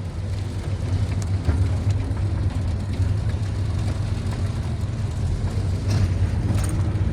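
A motor vehicle running: a steady low engine and road rumble.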